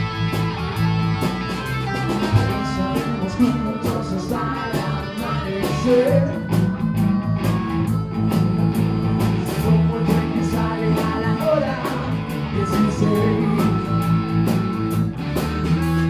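A blues-rock band playing live: electric guitar, bass guitar and a drum kit keeping a steady beat.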